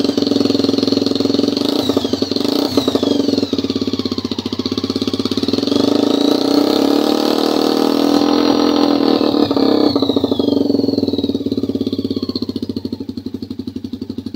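Single-cylinder four-stroke engine of a Suzuki Thunder motorcycle, bored out to 152 cc, running through its exhaust while oil is burnt out of the pipe. The revs rise and fall, loudest midway, and ease off near the end.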